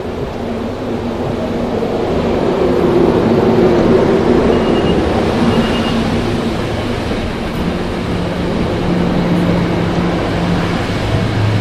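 Diesel passenger train pulling out: the locomotive's engine runs under power with a steady hum that shifts in pitch, growing louder over the first few seconds.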